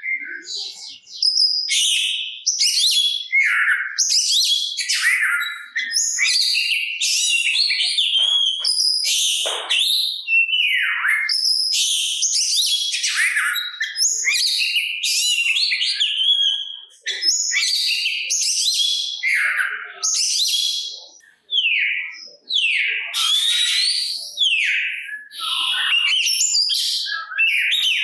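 Oriental magpie-robin (kacer) singing a loud, rapid, varied song of rising and falling whistles mixed with scratchy notes, phrase after phrase, with a brief pause about twenty-one seconds in.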